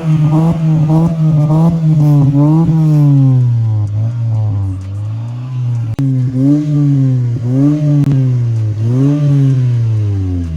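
Honda Civic four-cylinder engine through an HKS aftermarket exhaust, revving. The pitch is held high for the first few seconds, then drops, and rises and falls several times before falling away near the end.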